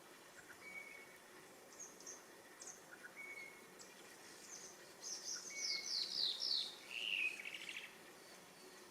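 Wild birds calling and singing: scattered quick, high, downward-sliding notes, with a louder run of several in a row about five to seven seconds in, and a few short, steady, lower whistled notes in between.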